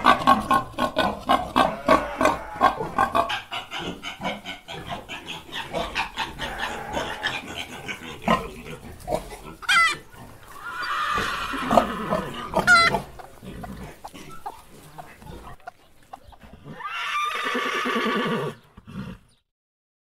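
An animal calling: a fast run of short, pulsing calls for about eight seconds, then a few longer calls, the last one lasting about two seconds near the end.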